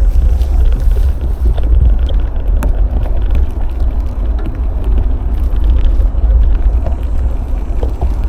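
Wind buffeting the action camera's microphone on a moving bicycle: a loud, unsteady low rumble, with a few light clicks and knocks from the bike.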